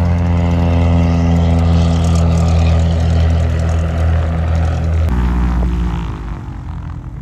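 A small propeller airplane's engine running close by with a steady note, just after start-up. About five seconds in the note drops suddenly, then slides lower and quieter.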